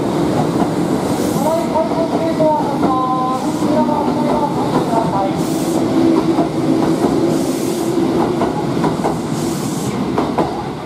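Kintetsu electric train moving out along the platform: its traction motors whine in tones that step in pitch during the first half, then the wheels clack over rail joints at a quickening pace.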